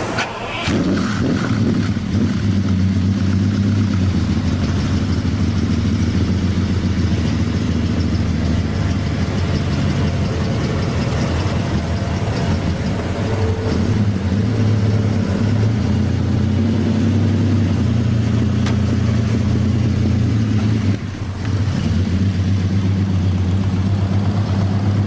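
A car engine running loud and steady, dipping briefly near the end before picking up again.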